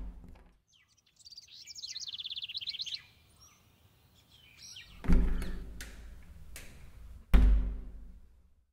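A bird chirping in a rapid trill for about two seconds, then two heavy, deep thuds about two seconds apart, each ringing on briefly.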